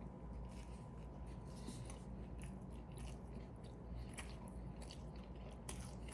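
Quiet close-miked chewing of a McDonald's Double Big Mac, with soft wet mouth clicks and smacks coming irregularly.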